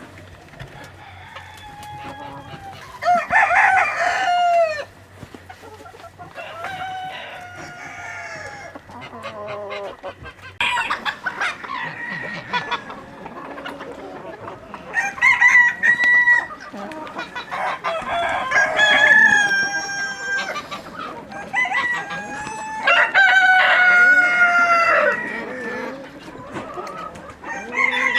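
Roosters crowing, about six long crows one after another, with chickens clucking between them.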